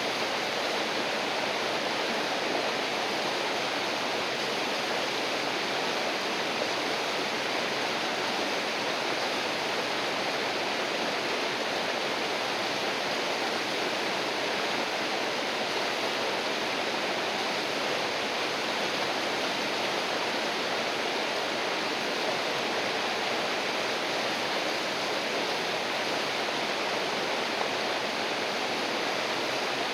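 River water rushing over rocks, a steady even rush with no breaks.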